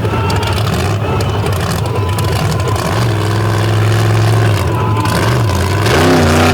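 Monster truck engine running hard, holding a steady pitch through the middle, then revving up and down several times near the end.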